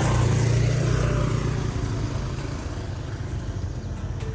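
Small motorbike engine labouring up a steep hill, loudest at the start and fading over the next few seconds.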